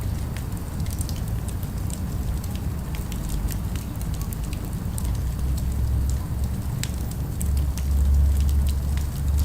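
Fire crackling with scattered small pops, over a steady low rumble of city ambience that grows louder near the end.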